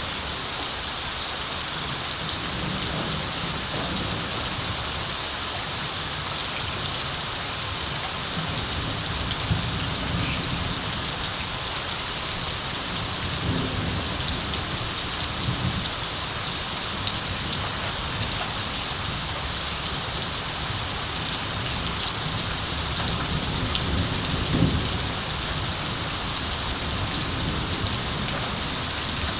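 Steady rain falling on surfaces, with distant thunder rumbling low several times, swelling and fading.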